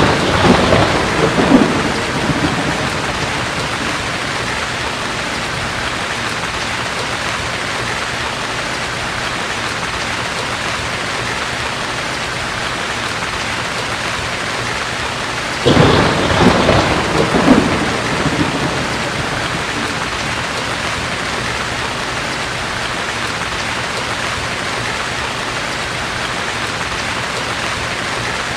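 Thunderstorm: steady heavy rain with two peals of thunder, one at the start and one about sixteen seconds in, each rumbling for two to three seconds.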